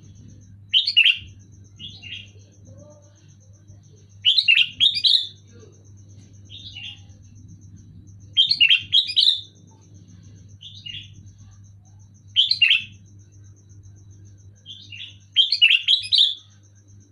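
Sooty-headed bulbul (kutilang) singing short, loud chirping phrases every couple of seconds. Each loud phrase, some in quick pairs or triplets, alternates with a softer single one.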